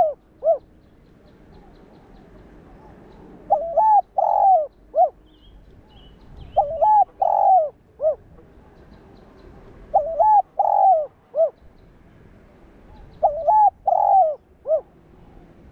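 Spotted dove (Streptopelia chinensis) cooing: the same phrase of a couple of short coos, one longer drawn-out coo and a short closing note, repeated four times at an even pace about three seconds apart.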